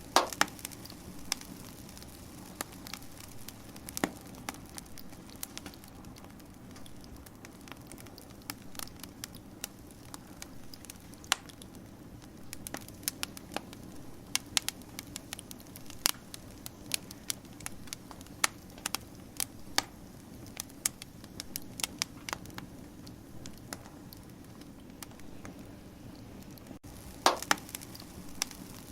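Wood fire crackling: irregular sharp pops and snaps over a steady low background, with a quick cluster of pops at the start and another near the end.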